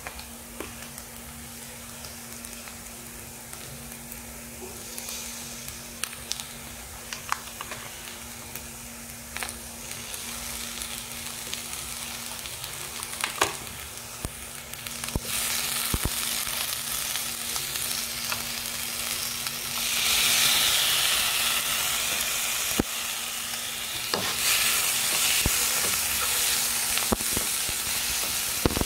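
Chicken, scrambled egg and carrot sizzling in a hot nonstick pan, with scattered clicks of a wooden spatula scraping and stirring. The sizzle gets clearly louder about halfway through, as chopped tomato goes into the pan and is stirred in.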